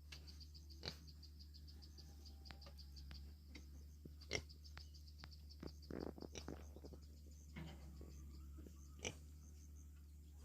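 Pigs eating, with soft clicking and crunching and a short grunt about six seconds in, over a steady high chirping of insects and a low hum.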